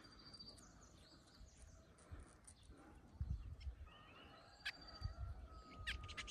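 Faint calls of small wild birds: brief high chirps and, near the end, a short steady whistle, with a few sharp clicks. Low rumbling handling noise comes through the middle as the man slowly stands up.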